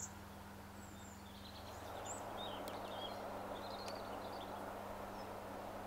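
Small birds chirping in short, scattered calls over faint, steady outdoor background noise that swells slightly about two seconds in.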